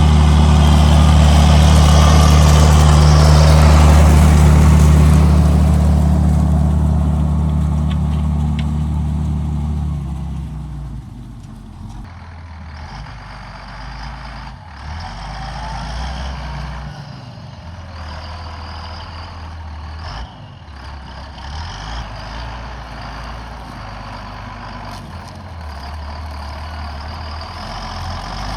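John Deere 7800 tractor's six-cylinder diesel engine pulling under load, loud and close with a rushing noise over it for the first ten seconds, then fading to a quieter, distant running sound as the tractor moves away. It grows louder again near the end.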